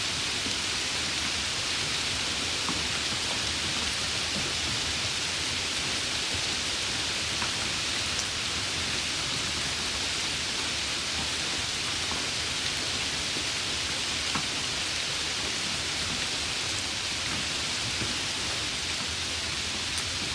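Steady rain falling: an even hiss with occasional faint ticks of single drops.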